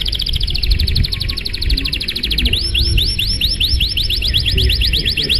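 Domestic canary singing a long unbroken song: a fast trill of rapidly repeated high notes that changes, about halfway through, into a slower run of upward-sweeping notes.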